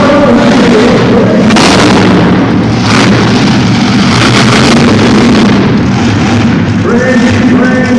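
Monster truck's 540-cubic-inch engine running very loud under hard throttle, its pitch climbing and falling as the driver gets on and off the gas. Two sharp bangs cut through the first few seconds.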